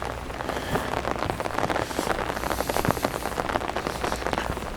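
Heavy cold rain falling, a steady hiss thick with the separate ticks of drops landing.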